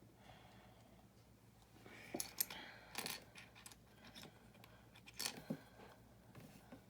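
Small plastic building bricks clicking and clattering as pieces are handled and pressed together, in a few short bursts with quiet between.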